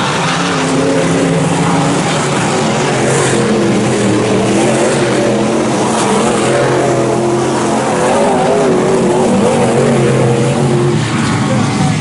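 IMCA Northern SportMod race cars' V8 engines running at racing speed, several engines heard at once, their pitches rising and falling as the cars lap the dirt oval.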